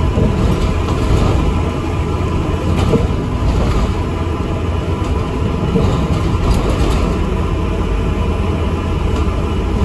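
Cabin noise of an ADL Enviro400 MMC double-decker bus on the move: a steady low engine and road rumble with a few faint rattles.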